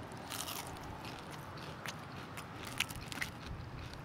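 A person chewing crispy battered, dry-fried eggplant, with a few faint, scattered crunches.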